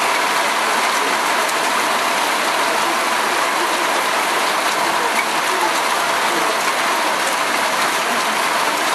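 Heavy thunderstorm downpour: a steady hiss of rain falling on trees and leaves, with scattered faint ticks of drops striking close by.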